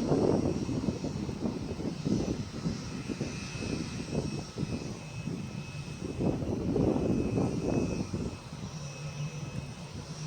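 Boeing 787 jet engines running at low power, a steady high whine over an uneven low rumble that swells and fades.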